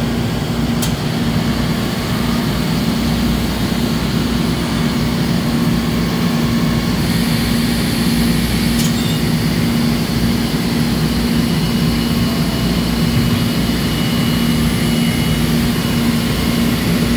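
Traub Swiss-type automatic lathe running: a steady machine hum with a low tone held throughout, two faint ticks, and a faint high whine that comes in about twelve seconds in.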